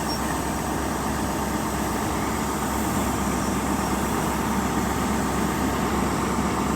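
Diesel engine of a Class 43 HST power car running steadily, a low even mechanical drone that grows slightly louder near the end.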